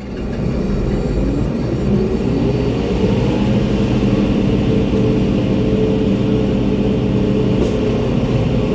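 Diesel engine of a concrete mixer truck, heard from inside the cab, speeding up over the first three seconds and then running steadily at the higher speed.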